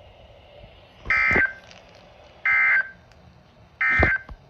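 NOAA Weather Radio SAME end-of-message data bursts: three short, identical, shrill warbling digital tone bursts about a second and a half apart, marking the end of the severe thunderstorm warning broadcast.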